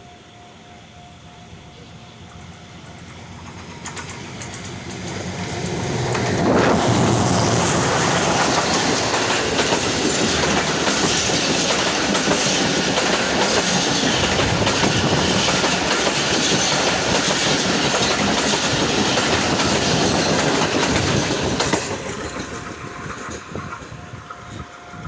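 A train passing close by: its noise builds over the first six seconds, stays loud and steady for about fifteen seconds, then drops off suddenly and fades as it goes away.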